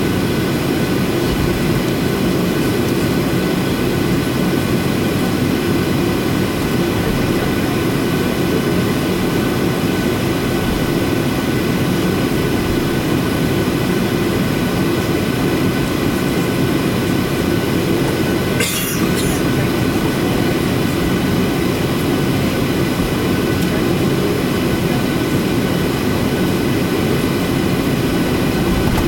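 Boeing 737-800's CFM56 jet engines running with a steady loud rumble and a thin, steady whine over it. A single brief click about two-thirds of the way through.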